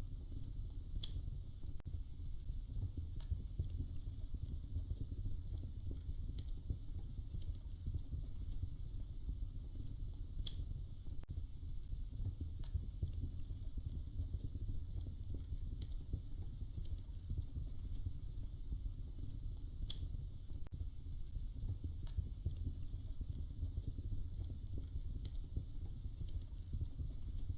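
Wood fire crackling in a fireplace: sharp pops and snaps at irregular intervals, about one every one to two seconds, over a steady low rumble of the flames.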